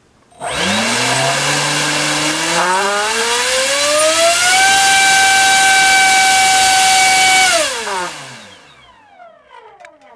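Gartt HF500 1600kv brushless motor spinning a 7x7 APC propeller on a thrust test stand. It gives a rising whine as it throttles up over about four seconds, holds steady at full throttle with loud propeller wash for about three seconds, then winds down with a falling whine.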